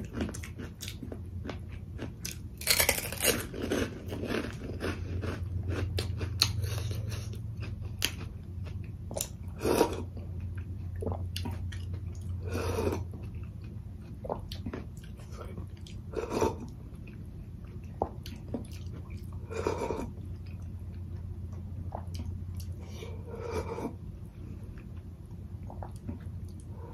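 Close-miked chewing and biting with crisp crunches at irregular intervals, over a steady low hum.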